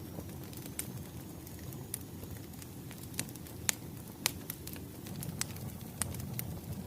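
Crackling wood fire: a steady low rumble of burning logs with irregular sharp pops and snaps, the loudest two a little after the middle.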